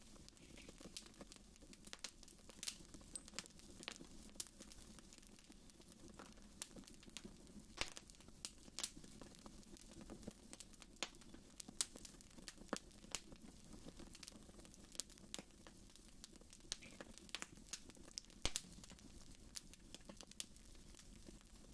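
Fireplace fire crackling faintly: irregular sharp pops and snaps scattered throughout, with a louder pop near the end.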